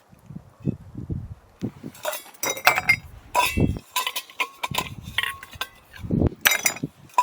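Dishes and utensils clinking and knocking together as they are handled, several short ringing clinks among low thuds.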